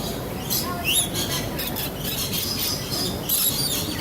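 A flock of lorikeets chattering in short, shrill, high-pitched calls, busiest about a second in and again near the end, over a steady low background rumble.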